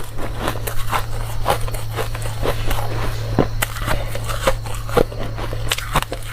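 Close-up crunching of ice being bitten and chewed: quick, irregular crunches, several a second, over a steady low hum.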